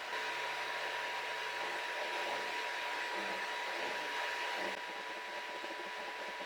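A small electric motor running steadily with a rushing hiss and a constant whine; it gets slightly quieter a little before the end.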